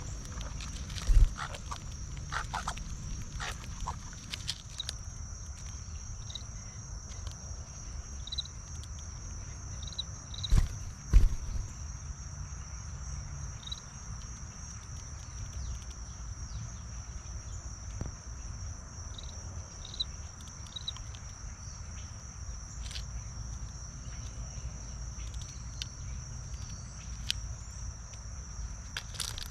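Steady high-pitched insect chorus of crickets or katydids, with scattered short bird chirps. A few loud thumps break in, one about a second in and two close together near the middle.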